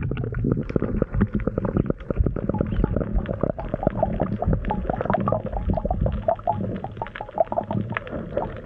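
Muffled water noise heard underwater: low rumbling and bubbling with dense crackling clicks throughout.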